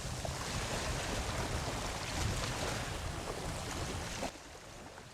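Ocean surf washing onto a beach, a continuous rushing wash with a heavy low rumble of wind on the microphone. About four seconds in the level drops suddenly and the surf goes on more faintly.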